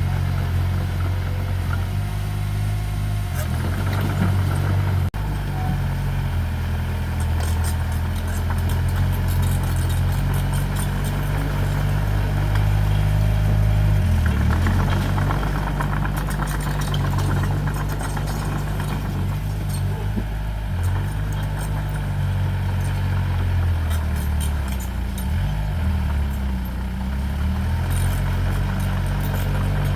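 Diesel engine of a working earthmoving machine running under changing load, its pitch dipping and rising several times, with bursts of light metallic clatter.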